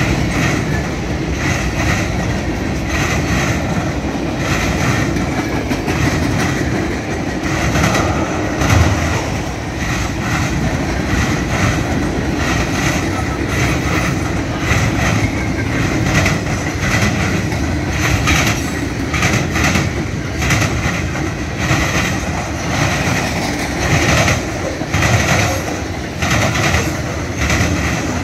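Freight cars of a long train rolling past close by: a steady rumble of steel wheels on rail, with clusters of clacks as the wheel sets cross the rail joints.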